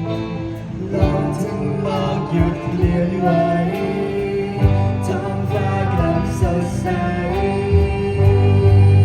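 A live band playing a song, with guitars and drums and a singer.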